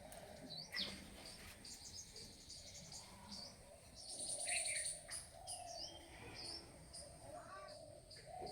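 Birds chirping faintly, a scatter of short high calls, the busiest patch about halfway through.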